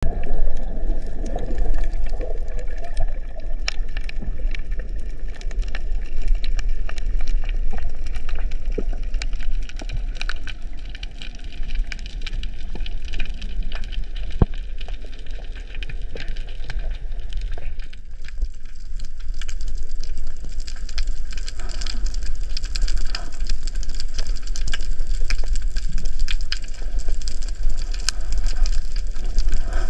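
Underwater sound picked up by a GoPro Hero 10 on a freedive: a steady, muffled low rumble of water with many scattered sharp clicks and crackles.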